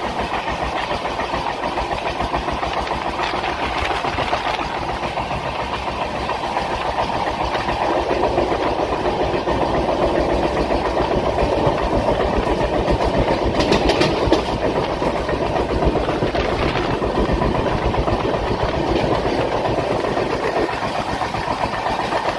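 A large engine running steadily at idle, with a rapid, even low throb and a noisy mechanical clatter over it.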